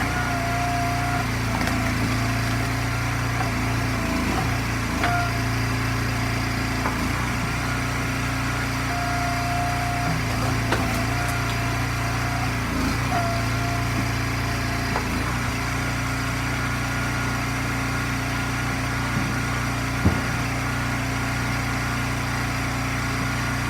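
Gas engine of an Eastonmade log splitter running steadily, with a higher tone that comes and goes several times. Faint knocks of wood throughout, and one sharp knock near the end.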